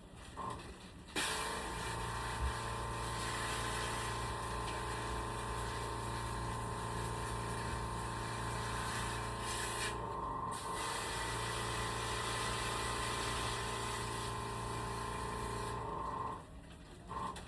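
A motor-driven machine switches on about a second in and runs steadily with a hum and a hiss, then cuts off near the end. The hiss drops out briefly about ten seconds in while the hum carries on.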